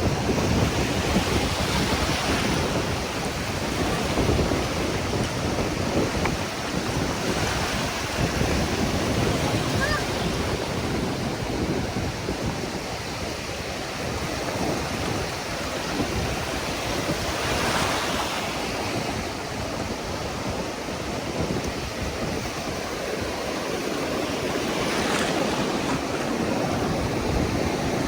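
Ocean surf breaking on a beach, with several stronger waves crashing over a steady wash. Wind rumbles on the microphone.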